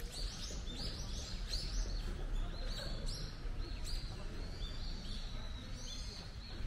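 A small bird calling over and over, a run of short high chirps, each dropping in pitch, about two a second, growing fainter in the second half, over a steady low rumble.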